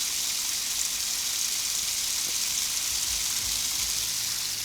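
Steady hiss of water spraying from a garden hose nozzle.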